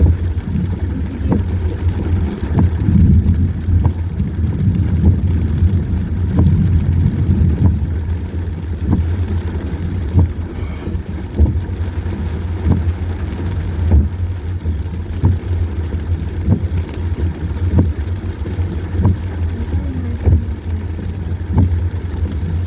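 Car driving in a heavy rainstorm, heard from a dash cam: a steady low rumble of engine and road noise with irregular short taps and knocks over it.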